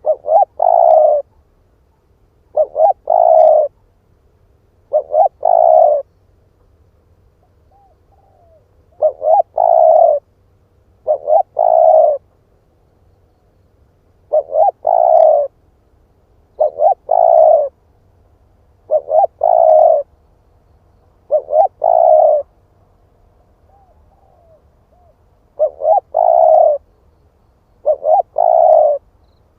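Spotted dove cooing over and over: a short phrase of two quick notes and a longer drawn note, repeated about every two seconds.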